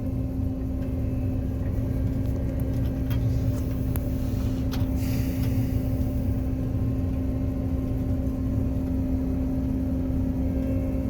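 John Deere 9500 combine's diesel engine running steadily: an even low rumble with a constant hum over it.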